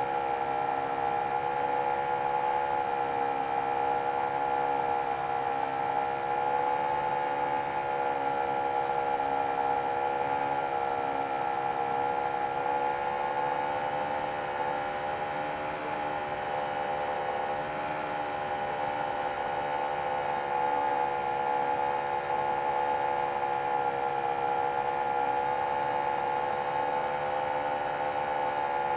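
Nitro glow engine of a large RC model airplane running steadily at high throttle, its pitch wavering slightly.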